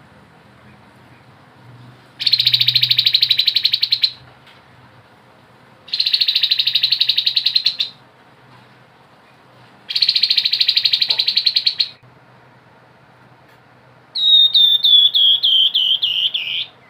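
Grey-headed babbler singing: three rapid, buzzy trills of about two seconds each, with pauses between them. Near the end comes a run of about nine short whistled notes, each dropping in pitch, the run sinking lower as it goes.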